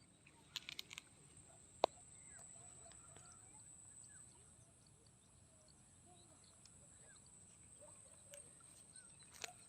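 Faint, scattered morning birdsong: short chirps and calls here and there over a steady high-pitched hiss. A quick run of sharp clicks comes about half a second in, and a single louder click just before two seconds.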